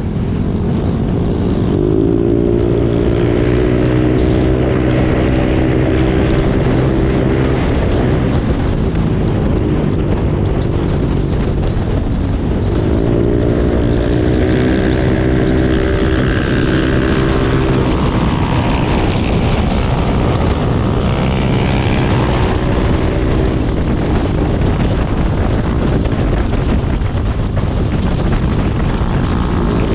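Motorcycle engine running while riding, its pitch climbing over a few seconds and then dropping as it changes gear, three or four times. Wind rushes over the camera's built-in microphone throughout.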